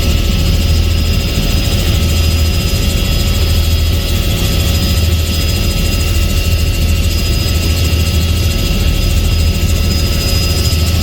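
Helicopter in flight, heard from inside the cabin: a loud, steady low rotor drone with a constant high engine whine over it.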